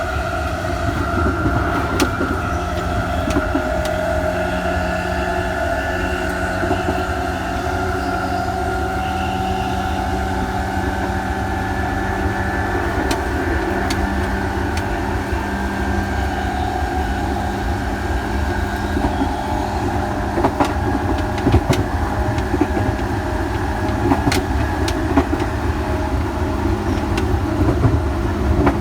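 Electric train running, its traction motors whining with a pitch that rises slowly over the first several seconds and fades out later, over a steady rumble of wheels on rail with scattered sharp rail clicks.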